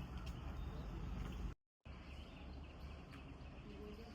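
Steady outdoor background noise with a strong low rumble, broken by a moment of dead silence about one and a half seconds in.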